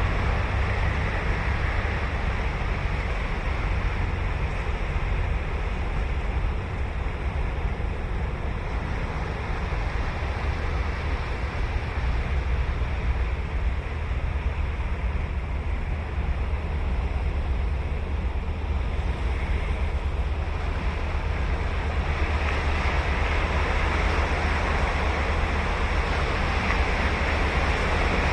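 Ocean surf breaking and washing up a beach: a continuous rush that swells again in the last few seconds, over a low rumble of wind on the microphone.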